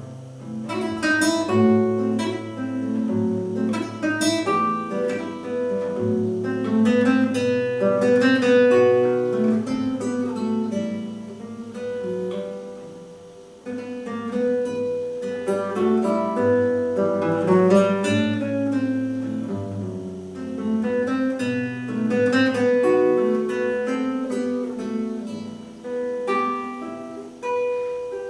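Classical guitar played solo: a slow, lyrical melody of plucked notes over held bass notes.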